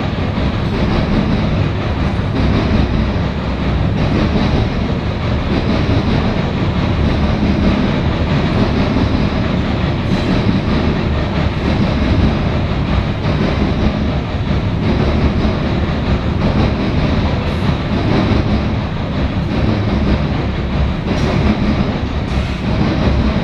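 CSX freight train cars rolling past close by: a loud, steady rumble of steel wheels on rail with a few faint clacks.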